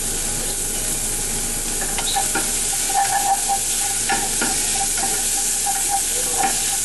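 Chopped onion, garlic, red chili peppers and ginger sizzling in olive oil in a pot, with a few knocks and scrapes of a utensil stirring them.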